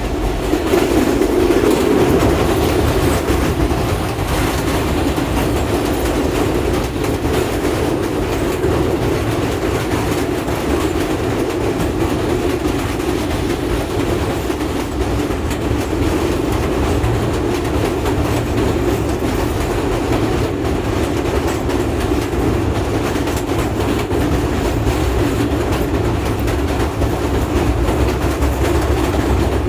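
Train running across a railway bridge: a steady, loud rumble of wheels on the rails with a clickety-clack of the rail joints, unbroken throughout.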